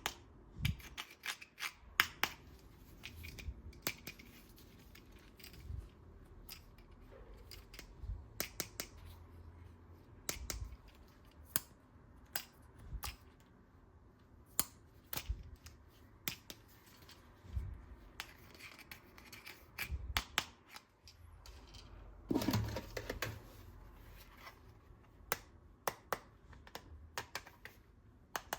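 Hard plastic toy parts being handled, giving irregular sharp clicks and taps, with a longer scrape about two-thirds of the way through.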